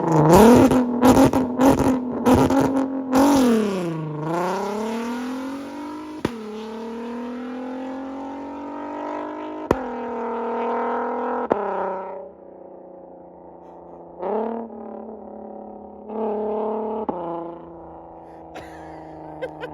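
Catless straight-piped VW R32's 3.2-litre VR6 launched hard: a rapid crackle of exhaust pops as it leaves, then the engine note climbs through the gears with short dips at the upshifts. It grows fainter as the car pulls away, with a few shorter rises in revs near the end.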